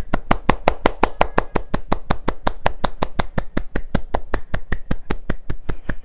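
One person clapping hands in a quick, even rhythm of about seven claps a second.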